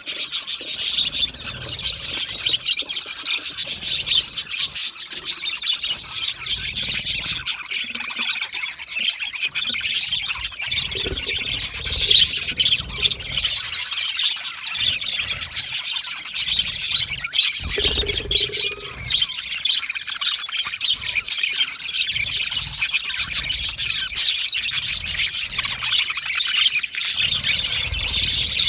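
A flock of budgerigars chattering, with dense overlapping chirps, whistles and warbles throughout.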